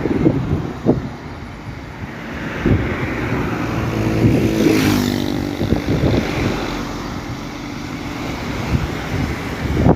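Heavy truck engines running as a convoy moves past, with an engine tone swelling about halfway through and wind buffeting the microphone in short bumps.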